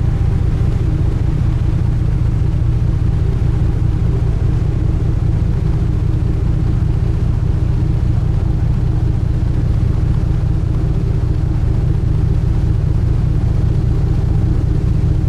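Sightseeing cruise boat's engines running steadily at cruising speed, heard aboard as a constant low rumble with a steady hum over it.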